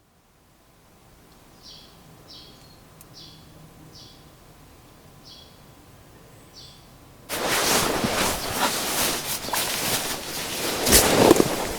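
A bird gives six short, high chirps over quiet outdoor ambience. About seven seconds in, a loud rustling and crackling noise with many small clicks starts suddenly, like gear being handled or steps on dry ground.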